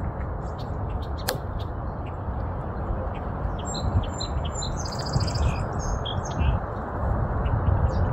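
Small birds chirping, with a quick trill about five seconds in, over a steady low rumble.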